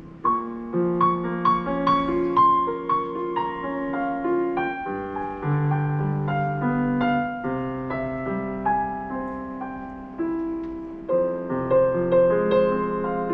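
Solo piano playing a slow, gentle prelude: chords and melody notes struck and left to ring, with a fresh phrase entering just after the start and the playing growing louder about eleven seconds in.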